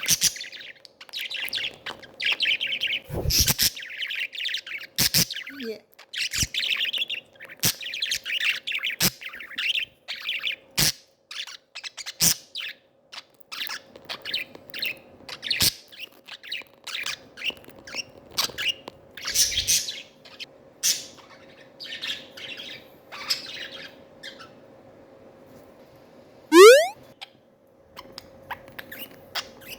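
Pet budgerigars chattering and chirping in a busy stream of warbles and sharp clicks, thinning out after about twenty-four seconds. Near the end, a single loud rising sweep.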